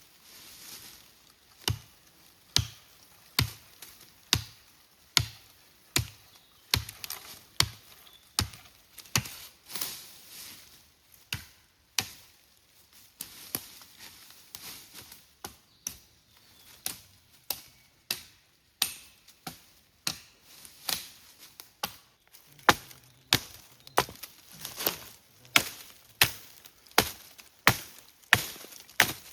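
Repeated chopping strikes into wood, roughly one a second at first and quicker and harder in the last few seconds.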